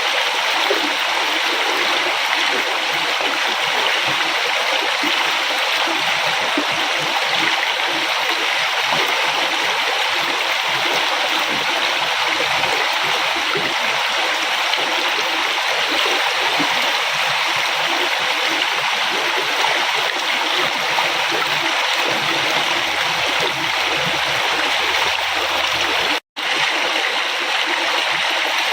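River water flowing and splashing steadily, with a momentary dropout to silence near the end.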